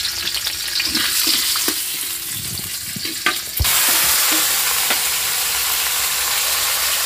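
Sardines stir-frying in hot oil: a steady sizzle with a few sharp clicks of stirring. About three and a half seconds in, the sizzle suddenly grows louder and then holds steady.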